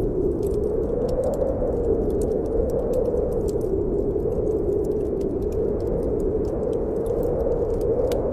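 Snowstorm wind blowing steadily, its low rushing sound swelling and easing slightly in pitch, with a wood fire crackling in frequent small sharp pops over it.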